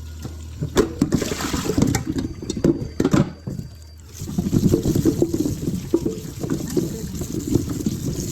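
Water running and splashing in a kitchen sink, with several knocks and clatters of things being handled in the first few seconds. The steady splashing sets in about halfway through.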